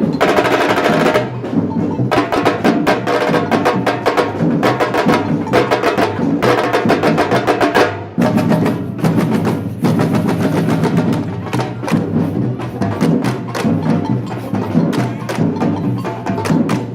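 Batucada samba percussion ensemble playing a fast, dense drum groove. There is a short break about eight seconds in, then the drums come back in.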